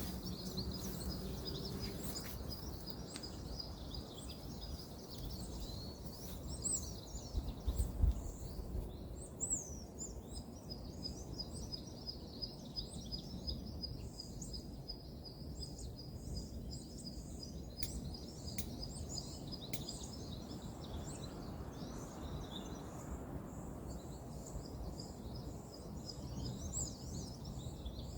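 Woodland ambience: a steady low hum of distant road traffic, a high, rapidly repeating chirp through most of it, and a few short bird calls, with a handful of sharp clicks.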